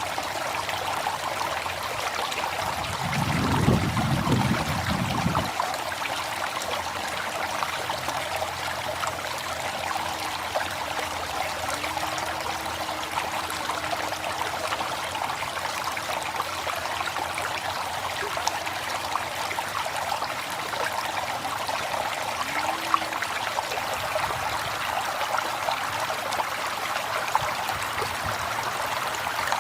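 River water flowing and rushing steadily, with a brief low rumble about three seconds in.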